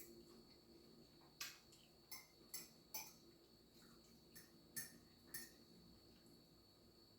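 Faint close-up eating sounds: about seven short, sharp clicks and smacks spread over a few seconds.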